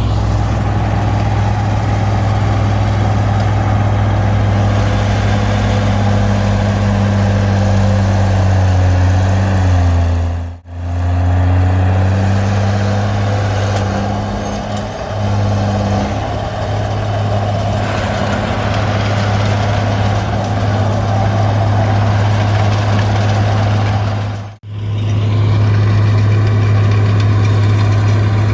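Komatsu D20P bulldozer's diesel engine running steadily with a deep, even drone. The sound cuts out briefly twice, about ten seconds in and again about twenty-four seconds in.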